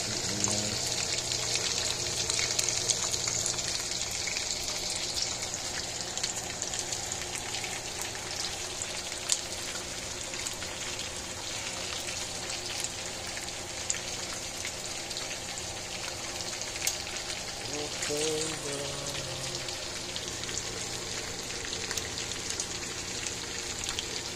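Chicken pieces frying in hot oil in a pan: a steady sizzle with many small crackles and pops scattered through it.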